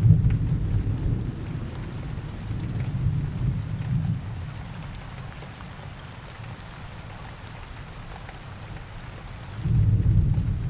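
Steady rain with rolling thunder. A low rumble swells at the start and fades over about five seconds, and another begins near the end.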